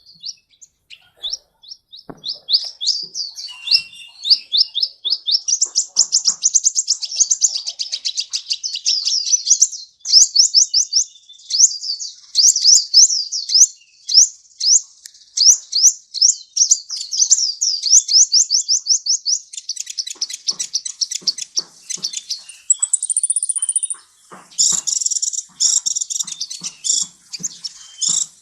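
Sunbird ('kolibri') song: a long, fast run of high, thin sweeping notes, chattering almost without pause. A brief, higher buzzy note comes about 23 seconds in.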